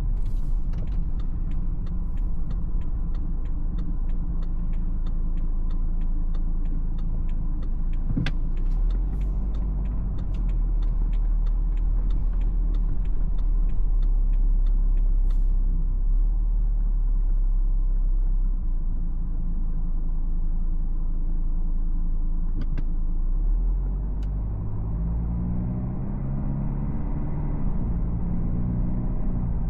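Inside the cabin of a BMW X4 xDrive20d, its 2.0-litre four-cylinder diesel and the road make a steady low rumble while driving. For about the first fifteen seconds a quick, even ticking runs over it. Near the end the engine note rises and falls as the car pulls away through the gears.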